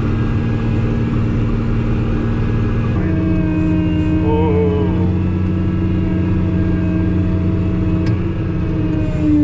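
Tractor engine running with a steady hydraulic whine; the hydraulic system is leaking oil from a pulled case drain hose. The pitch of the tones steps down about three seconds in.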